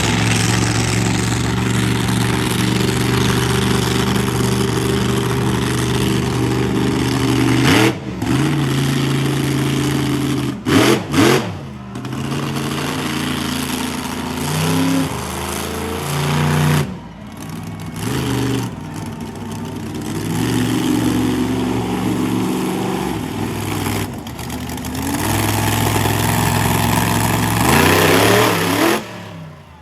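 Monster truck engine running hard, revving up and down with the throttle, and chopped off abruptly several times: about eight seconds in, around eleven, near seventeen, and near the end.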